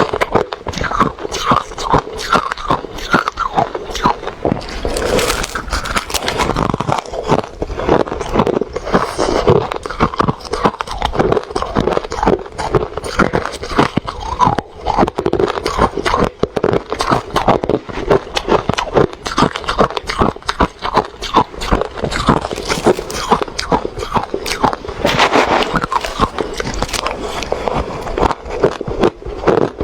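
Close-up chewing of crunchy refrozen crushed ice, a dense run of rapid crackling crunches and cracks.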